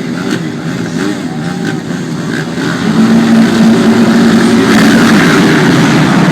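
Motocross motorcycle engines revving, their notes wavering up and down; about three seconds in one bike gets much louder and holds a steady high engine note.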